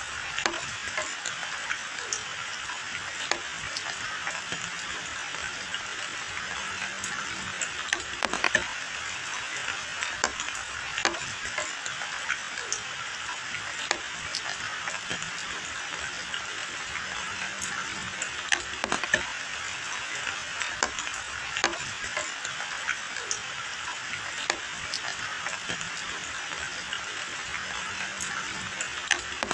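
Steady rain falling on dense hedge leaves and a wet paved lane, a continuous hiss dotted with sharp ticks and splats of single drops.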